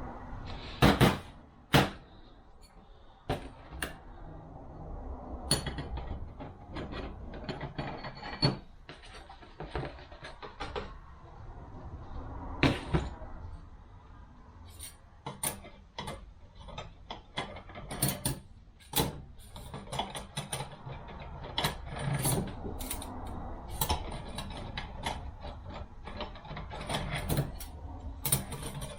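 Transmission clutch discs and steel plates from a 42RE automatic transmission clinking and clacking as they are handled and sorted, in irregular sharp clacks.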